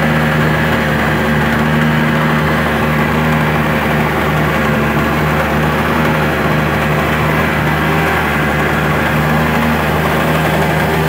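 Speed boat's engine running steadily at an even pitch.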